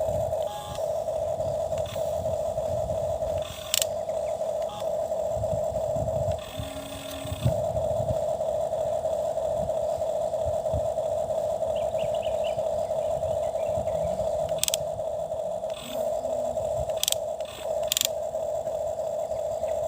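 Small electric motor and gears of a toy excavator running with a steady whine. It breaks off briefly a few times, and once for about a second while a lower whine sounds. Sharp clicks and scrapes come in between.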